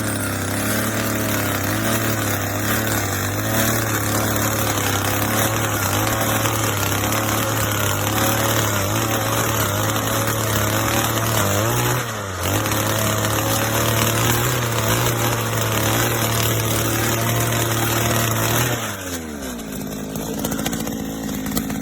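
Small two-stroke petrol engine of a 62 cc earth auger running at high revs with a slightly wavering pitch. It dips briefly about halfway through, then the revs fall away to idle near the end.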